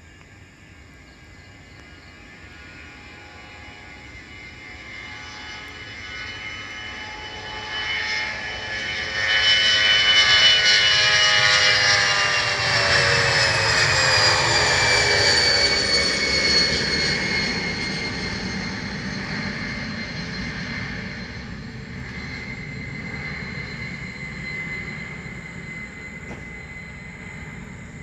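Jet aircraft passing close by: its engine noise builds steadily to a peak about ten seconds in, the whine drops in pitch as it goes past, and then it slowly fades.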